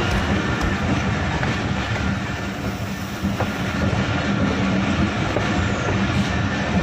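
Passenger train running along the track, heard from the moving coach: a steady rumble of wheels and carriage with a few scattered clicks.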